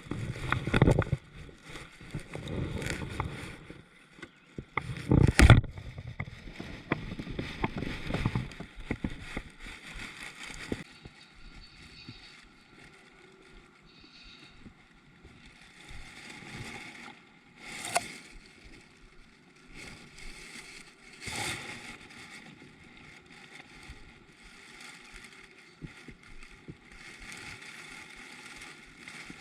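Water sloshing and splashing around a kayak, with irregular knocks against the hull. One sharp knock about five seconds in is the loudest, and smaller ones come later.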